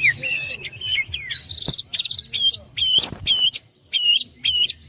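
Several caged songbirds singing over one another with varied whistles and trills. From about two seconds in, one bird repeats a sharp note that flicks upward, about three times a second.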